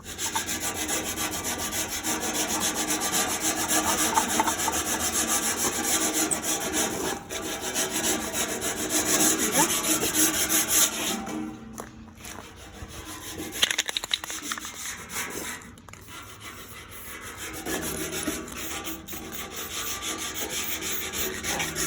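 Sanding the old paint off the sheet metal of a 1971 International Cub Cadet tractor: a scraping rub of quick strokes, loud for about the first half, then quieter with short pauses.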